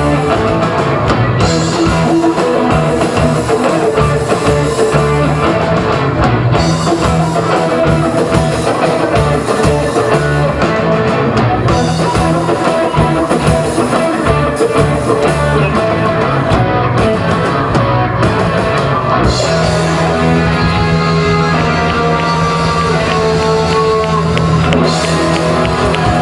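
Live rock band playing loud and without a break: electric guitar, bass and drum kit.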